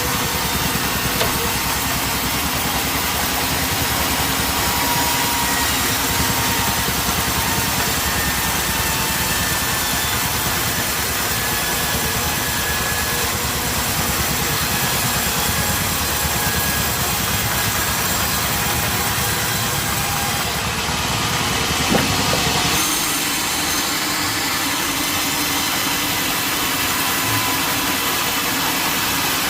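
Sawmill machinery running steadily, an engine note under a dense mechanical noise. A sharp knock comes about three quarters of the way through, and just after it the deep low rumble drops away while the rest keeps running.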